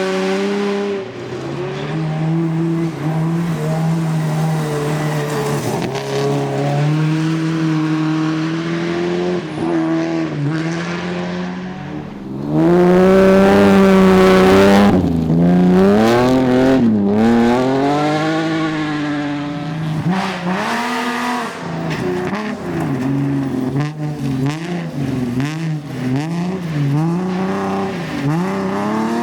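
Rally car engine revving hard, its pitch climbing and dropping again and again through gear changes and throttle lifts. It gets suddenly louder about halfway through for a few seconds.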